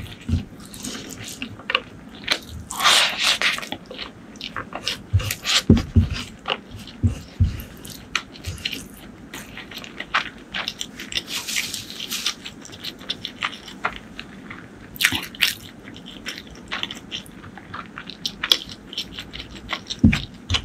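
Close-miked chewing of prawn curry and crispy food: many short wet mouth clicks and crunches, with a couple of longer noisy chewing stretches.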